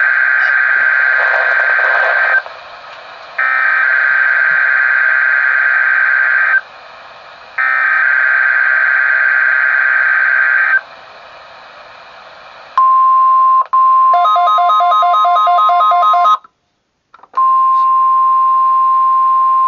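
NOAA Weather Radio test alert signals. Three screechy bursts of the digital SAME data header, each about three seconds long with short gaps, are followed by the steady 1050 Hz warning alarm tone. That tone is broken once by rapid beeping of about ten beeps a second and a brief dropout, then resumes steadily.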